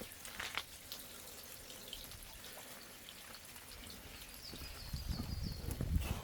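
Footsteps on a forest path, growing heavier in the last second or two, with scattered small clicks. A bird gives a short run of quick high chirps near the end.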